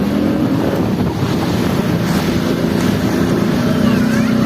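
A motor engine running at a steady drone, with wind buffeting the microphone.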